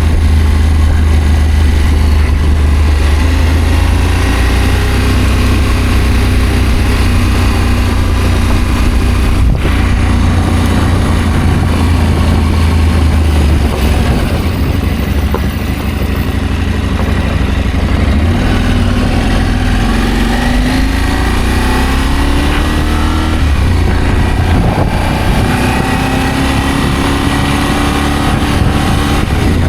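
Adventure motorcycle engine running while riding, its pitch rising and falling with the throttle over a steady low rumble.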